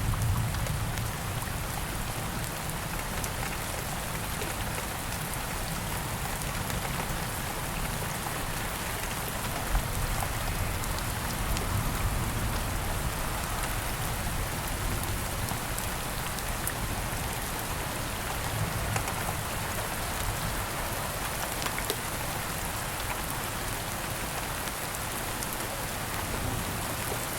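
Steady rain falling in a dense, even patter, with the tail of a low thunder rumble fading away at the start and a few single sharp pops.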